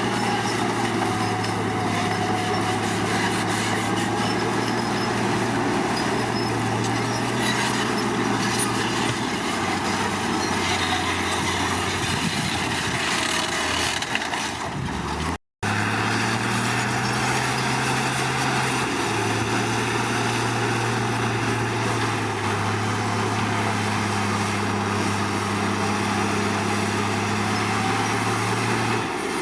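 Komatsu D53 bulldozer's diesel engine running steadily, its pitch shifting up and down a little a few times as the load changes. The sound cuts out for an instant about halfway through.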